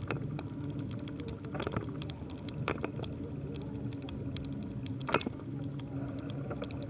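Riding noise from a bicycle, picked up by the action camera on the ride: a steady low rumble with irregular small clicks and rattles, and a sharper knock about five seconds in.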